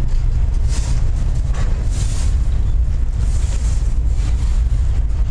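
Double-stack intermodal well cars rolling past close by: a loud, steady low rumble of steel wheels on rail, mixed with wind buffeting the microphone.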